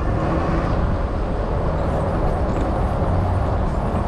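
Steady wind rushing over the microphone with road rumble while riding an e-bike.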